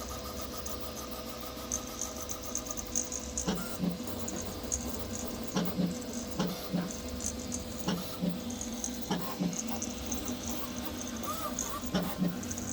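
Sapphire Plus 3D printer printing: its stepper motors make quick, irregular chirping moves over a steady fan hum.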